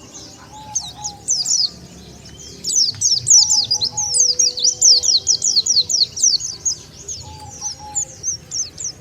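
White-eyes (pleci) chirping: fast runs of short, high, downward-sliding notes, sparse at first and then an almost unbroken chatter from about two and a half seconds in until near the end. It is a lure call used to draw in wild white-eyes.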